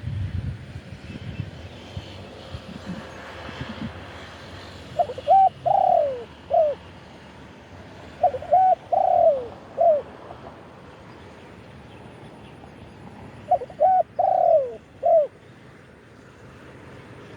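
Spotted dove cooing three times, each phrase a run of short hollow notes with one longer falling note, its advertising call to draw in wild doves.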